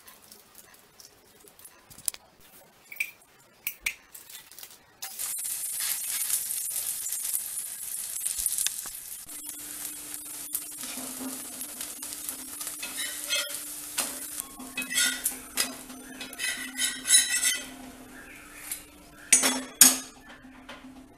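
A few light taps, then ragi rottis sizzling steadily on a hot tawa from about five seconds in. Near the end a steel spatula scrapes and clinks against the pan and a steel plate.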